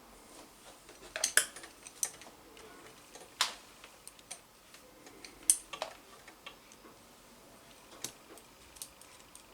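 Irregular light clicks and clinks of small hard parts and tools being handled, about seven or eight sharp separate knocks with quiet between them.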